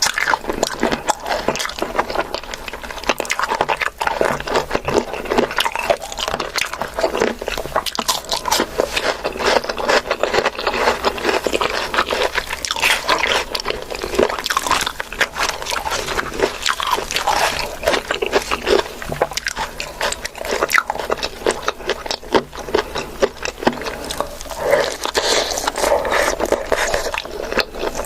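Close-miked eating: continuous wet chewing, smacking and crunching of food, a dense stream of small clicks with no pauses.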